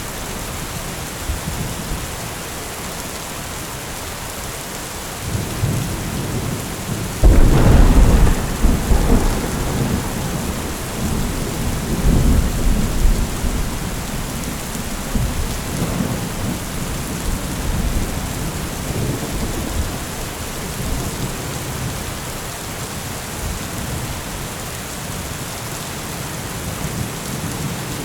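Steady rain falling, with a thunderclap breaking suddenly about seven seconds in and rumbling on for several seconds before fading back under the rain.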